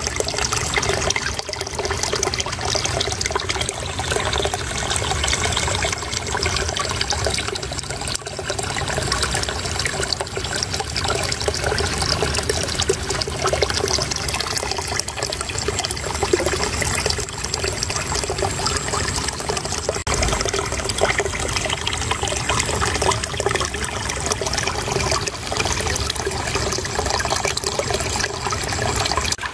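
Shallow running water babbling and trickling steadily, with no pauses.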